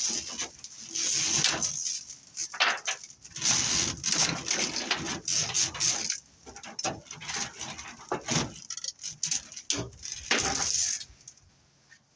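Tangled lengths of aluminum and steel BX armored cable rattling and scraping against each other as they are pulled apart by hand, in irregular bursts that stop about a second before the end.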